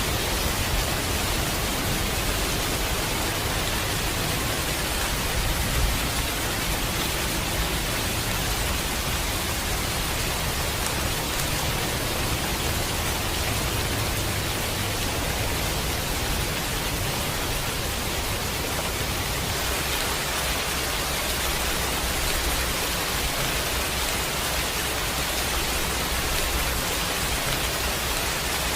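Steady heavy rain, a dense even hiss without a break, with a low steady rumble underneath.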